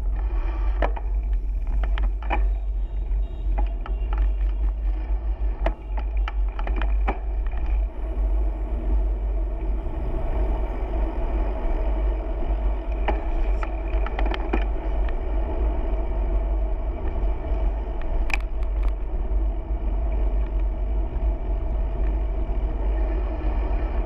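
Steady wind and road rumble on a camera riding along with a bicycle, with scattered short clicks and rattles.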